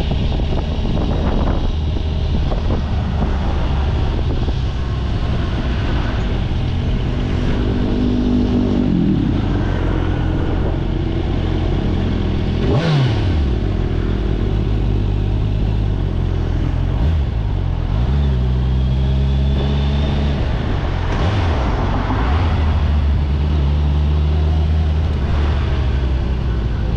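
Kawasaki Ninja 1000SX's inline-four engine running while under way. Its revs drop sharply and climb back several times.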